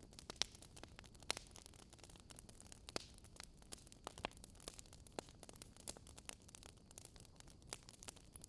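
Wood fire crackling: irregular sharp pops and snaps over a faint steady hiss, the strongest pops coming about half a second and a second in.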